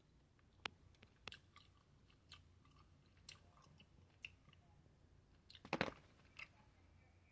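Close-up chewing of candy-coated frozen grapes: sparse, crisp crunches of the candy shell about once a second, with the loudest burst of crunching a little under six seconds in.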